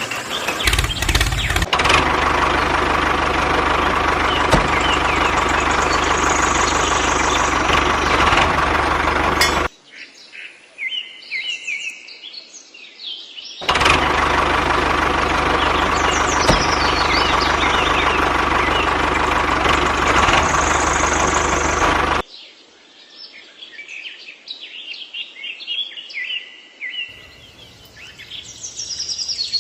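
Small DC motor of a homemade toy tractor running steadily with a whirring whine, in two stretches of about eight seconds that each cut off abruptly. Birds chirp in the gaps between.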